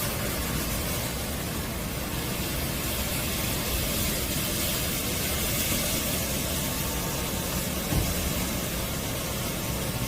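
ICE i-32BT battery floor scrubber-dryer running: a steady rushing motor noise, with a brief knock about eight seconds in.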